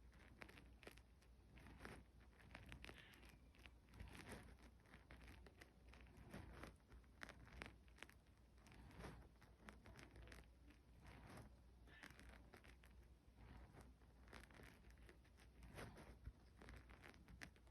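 Near silence: room tone with a low steady hum and faint scattered clicks and rustles.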